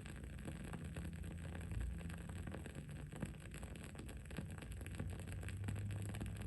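Wood-wick candle burning with an irregular crackle of small sharp pops, over a steady low background rumble.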